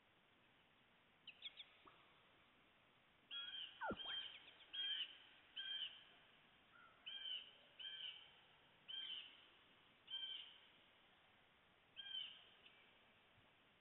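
A bird calling over faint background hiss: a series of short, arched notes, roughly one a second, starting about three seconds in, after a quick pair of chirps about a second in.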